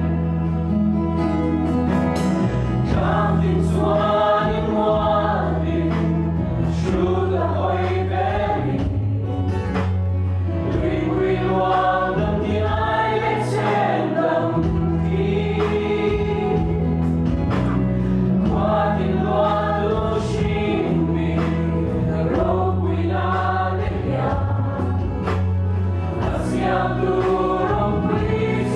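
Christian worship music: voices singing together over instrumental backing with steady low bass notes and regular sharp hits.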